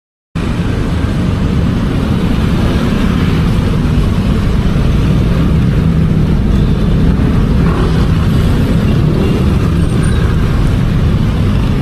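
Steady low rumble of road traffic and engine noise, as heard from a moving motor scooter.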